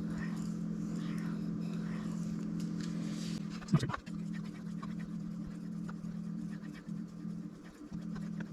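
A knife blade stroked across a sharpening stone, a run of scraping strokes repeating about every half second to a second, then one loud knock near the middle, followed by quieter scattered taps, over a steady low hum.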